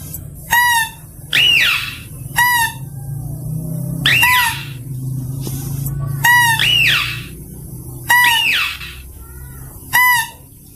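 Mouse-deer (kancil) calls: about seven short, shrill cries, roughly one every one to two seconds, each a brief high note and often a rising-then-falling squeal, over a steady low hum. It is a recording played as a lure to attract mouse-deer.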